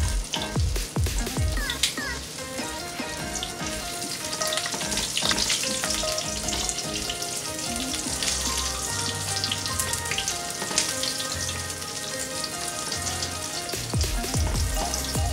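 Flour-and-egg breaded shrimp frying in shallow hot oil in a skillet: a steady sizzle with many small crackles and pops.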